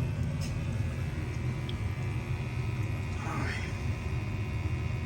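Gas furnace running, with its blower fan making a steady low rumble.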